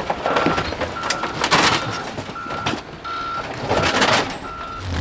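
A vehicle's reversing alarm beeps steadily, about eight single-tone beeps, roughly one every 0.7 s. Rough noise rises and falls underneath.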